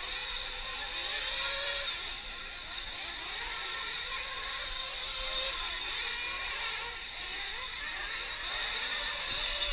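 High-revving small two-stroke nitro engines of 1/8-scale RC racing trucks running around the track, several engines at once, their pitch rising and falling with throttle.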